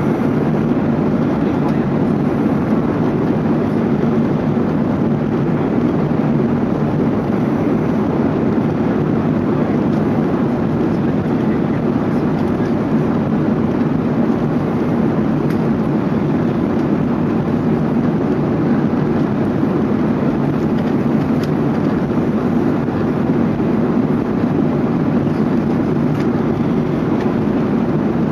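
Steady cabin noise inside an Airbus A380: a constant low roar of engines and airflow that holds level with no changes.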